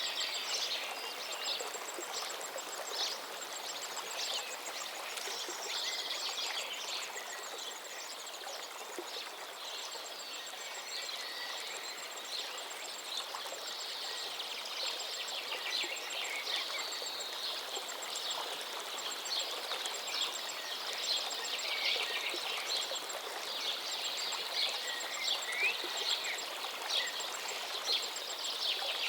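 River water running steadily with many birds chirping and singing over it. A very high, fast ticking trill comes and goes through much of it.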